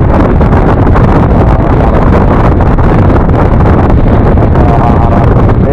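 Steady, loud wind buffeting the microphone of a motorcycle riding at speed, a dense low rumble with the vehicle's running noise under it.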